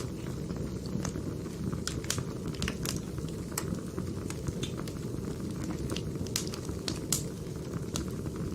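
Firewood burning: a steady low rumble of flames with irregular sharp crackles and pops from the burning logs.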